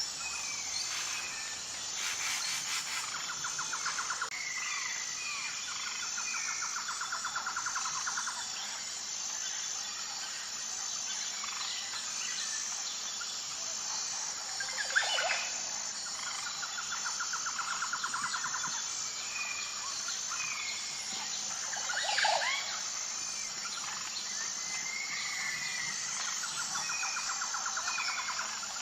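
Birds calling and chirping over a steady, evenly pulsing high insect chorus. A fast rattling trill comes three times, each lasting about two seconds. Two sharper, louder calls stand out, one about halfway and one about two-thirds of the way in.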